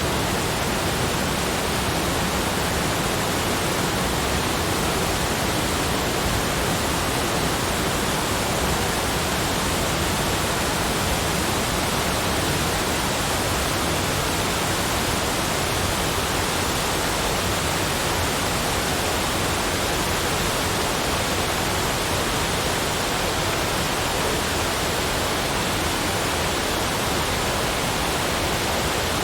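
Steady, unchanging rushing noise spread evenly from deep to high pitches, with no separate events in it.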